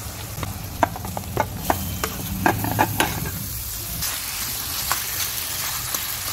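Marinated chicken sizzling in hot oil in a kadhai as a metal spoon stirs it. A run of sharp clinks and knocks from the spoon against the pan falls in the first three seconds, with one more later.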